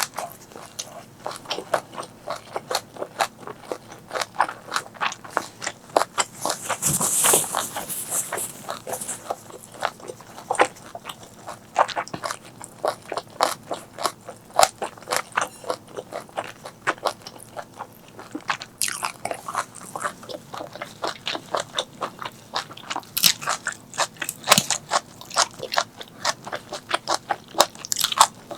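Close-miked eating: a person chewing and biting food, with a quick run of wet mouth clicks and crunches and a louder burst about a quarter of the way in.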